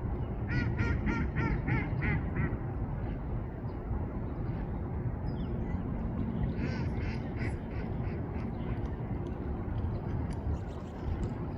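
A duck quacking in quick runs: about seven calls in a row near the start, another run about six and a half seconds in, and fainter calls near the end, over a steady low rushing background.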